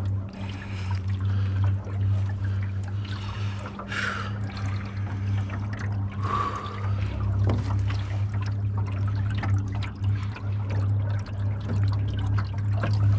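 Boat motor running at a steady low hum while water splashes and rushes along the hull. Two brief higher sounds come about four and six seconds in.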